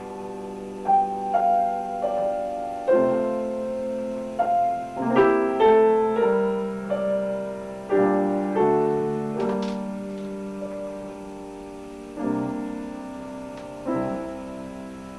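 Piano playing a slow piece: single melody notes and chords struck one at a time and left to ring and fade, with a quicker run of notes in the middle.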